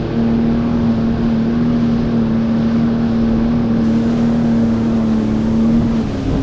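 Jet ski engine running at a steady high speed, holding one even pitch, with wind rumbling on the microphone.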